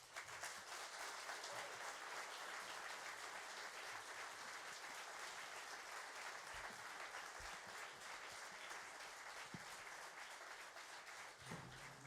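Audience applauding, breaking out all at once and holding steady before thinning near the end.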